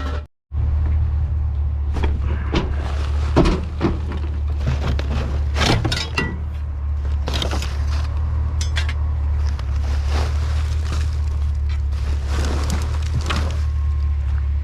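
Truck engine running with a steady low hum, with scattered knocks and rattles over it.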